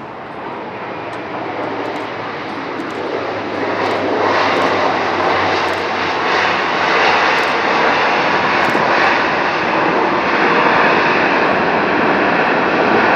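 Four-engine turboprop military transport aircraft passing, its engine noise growing steadily louder as it approaches.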